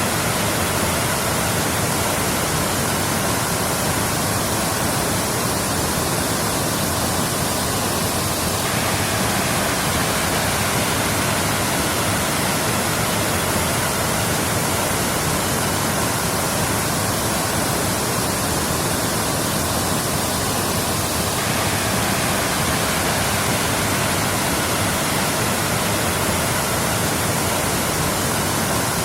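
Waterfall: a steady, unbroken rush of falling water, dense and even from low to high pitch with no separate splashes or drops.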